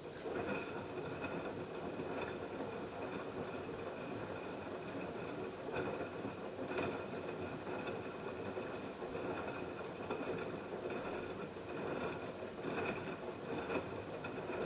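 LG F10B8QD1 direct-drive front-loading washing machine in its wash phase: the drum starts turning right at the beginning after a pause, tumbling and sloshing the wet laundry, with a steady high whine and occasional soft knocks.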